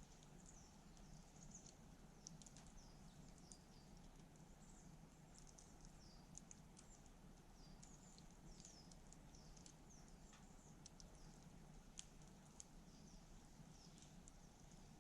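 Faint wood campfire with scattered sharp crackling pops, over many short, high chirps of small birds.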